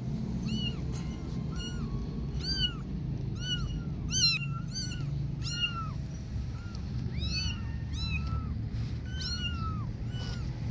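Kitten meowing over and over: short, high-pitched calls that rise and fall, more than a dozen at roughly one a second, over a steady low background rumble.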